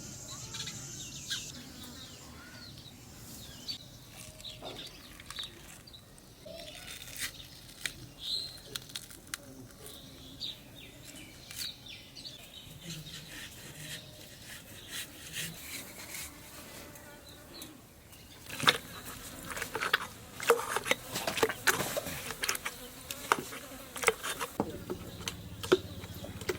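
Insects buzzing over a quiet outdoor background, with a run of sharp knocks and clatter in the last third.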